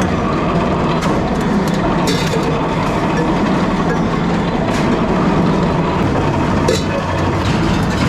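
Workshop metalworking machinery running steadily, with a low hum, a continuous rattling clatter and a few sharp metallic knocks.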